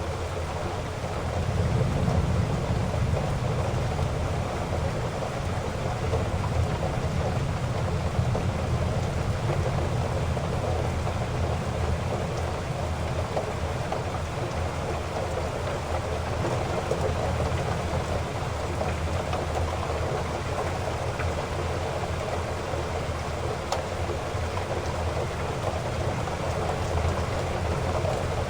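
Heavy rain falling steadily, a dense, even hiss of drops, with a low rumble underneath that swells about two seconds in.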